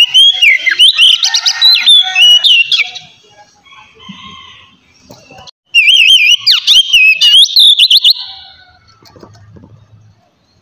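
Oriental magpie-robin (kacer) singing loud, clear whistled song in two phrases of varied whistles, slurs and rapid trills. The second phrase starts about halfway through.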